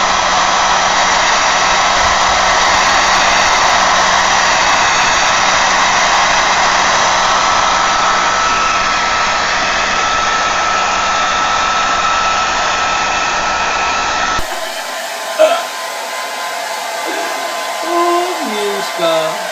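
Steady whirring noise of a small motor-driven blower, with a faint steady whine, that stops abruptly about 14 seconds in. After that comes a quieter stretch with a sharp sound and a few short sliding cries.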